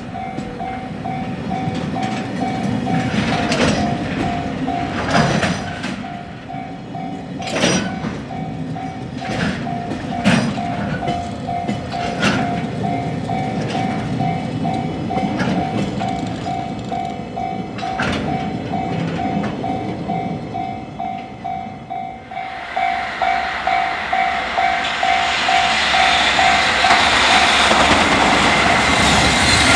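Long JR Freight container train rolling through a level crossing, its wheels clacking over the rail joints now and then, with the crossing bell ringing in an even, steady pulse. About two-thirds of the way in the sound cuts to the louder, rising rush of another freight train approaching, with a crossing bell still ringing.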